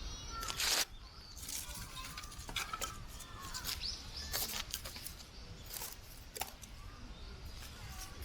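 Firewood being sorted by hand: irregular clacks and knocks of sticks against each other, over a low rumble of wind on the microphone, with a few short bird chirps.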